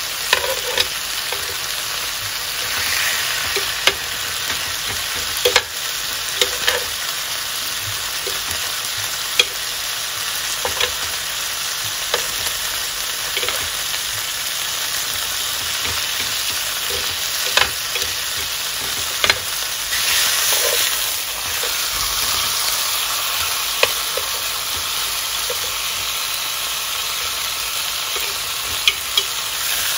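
Beef steak and vegetables sizzling steadily in a hot ridged grill pan, with sharp pops every second or two and a louder swell of sizzle about two-thirds of the way through.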